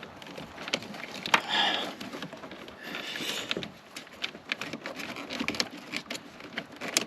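Hands working a washer hose and its plastic clips into place: scattered sharp clicks and taps of plastic, with short rustling scrapes.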